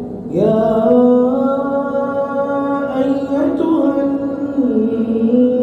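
A male reciter chanting Quran verses in a slow melodic tajweed style, drawing out long held notes that slide from one pitch to another.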